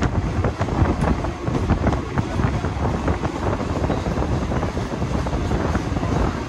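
Mumbai suburban electric local train (Western Railway EMU) running close by, its wheels clattering over the rails in quick, uneven knocks, with wind buffeting the microphone.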